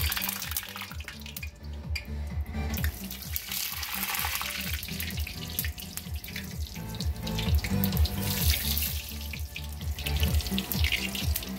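Breaded steak fritters sizzling and bubbling in hot oil in a frying pan as more pieces are dropped in. Background music with a repeating low bass line plays underneath.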